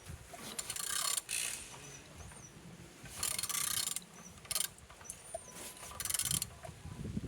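Engine being turned over by hand, with bursts of rapid ratchet clicking, about five spells of turning; it turns freely.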